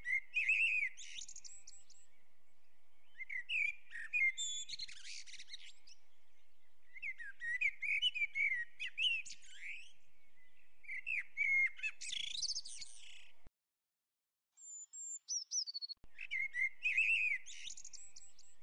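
Birds chirping and twittering in short groups every few seconds, with a sudden break of dead silence about two-thirds of the way through.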